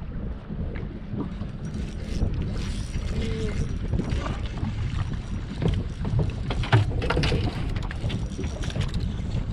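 Wind buffeting the microphone as a steady low rumble, with scattered short knocks and clicks, most of them a little past the middle.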